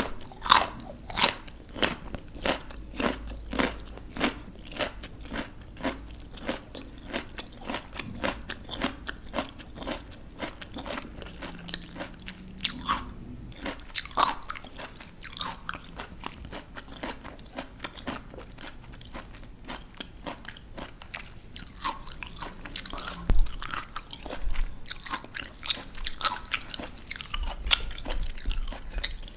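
Close-up crunching and chewing of crisp raw vegetables, a quick even run of sharp crunches about two or three a second, then slower chewing broken by a few louder crunching bites.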